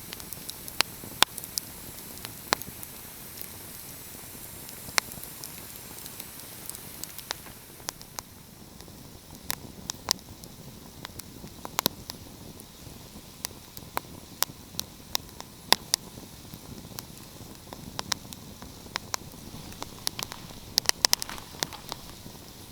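Wood fire crackling: irregular sharp pops and snaps over a soft steady hiss, with a quick run of pops near the end.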